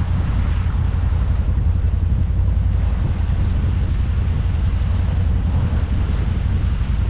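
ATV engine running while riding, with wind rumbling on the microphone.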